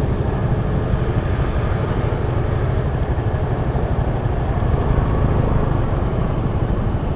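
Steady running noise of a motorcycle on the move in heavy rain: the engine and tyres on a wet road make an unbroken rumble.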